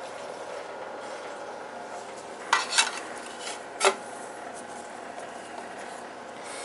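Three sharp metallic clinks from tools or metal parts being handled, two close together about two and a half seconds in and a third about a second later, over a steady background hum.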